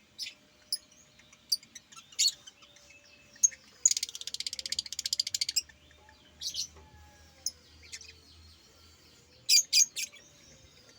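A pet bird chirping: scattered short, sharp chirps, a fast rattling trill about four seconds in that lasts under two seconds, and three quick chirps in a row near the end.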